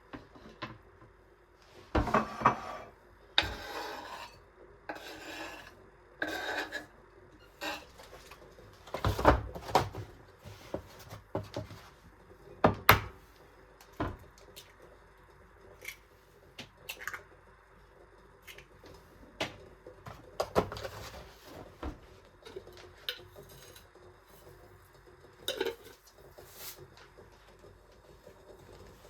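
Kitchen food-preparation sounds: irregular knocks, clinks and short scrapes of utensils against dishes and a board, with rubbing and rasping between them.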